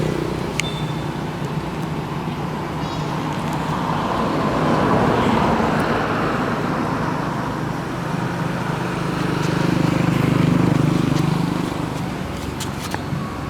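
Road traffic: a low engine hum that swells twice as vehicles pass, with scattered small clicks.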